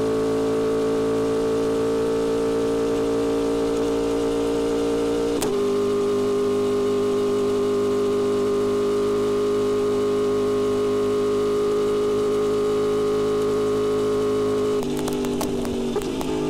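Yamaha R1M sport bike's inline-four engine running at a steady, high engine speed while riding. About five seconds in there is a sharp click and the note steps slightly lower. Near the end the note drops and wavers, with a few clicks.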